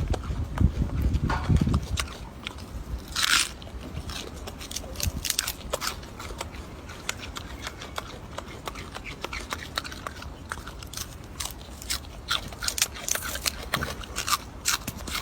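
Crisp, crunchy chewing, as of an animal eating food, in a long run of small clicks and crackles. A loud low rumble fills the first two seconds, then stops.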